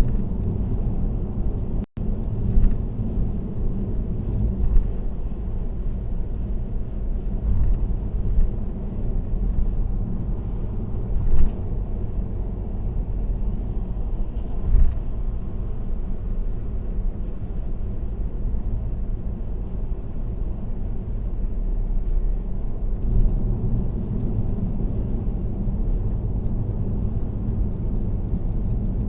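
Steady road noise of a car cruising on an expressway: a continuous low tyre and engine rumble, with a few brief knocks. The sound cuts out for an instant about two seconds in.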